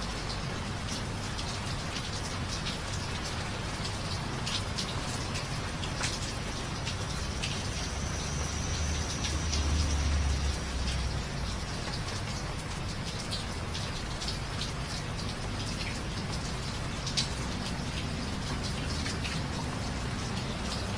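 Steady rain falling on hard surfaces, with scattered individual drops ticking sharply. A low rumble swells briefly near the middle.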